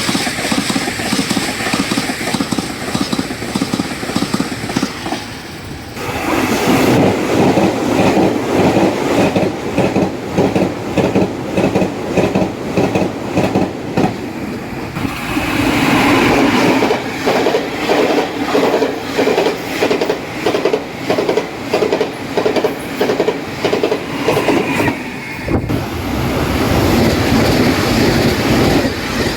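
Taiwan Railways trains passing at high speed, the wheels clacking in a rapid even rhythm over jointed rail at the fishplates. The sound changes abruptly three times, from one pass to the next.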